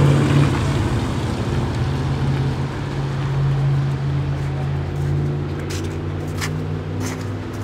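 A motor vehicle engine running steadily, a low drone that holds its pitch throughout, with a few brief clicks in the second half.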